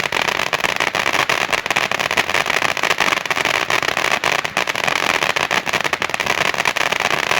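Consumer firework fountain spraying with a steady hiss under dense, rapid crackling.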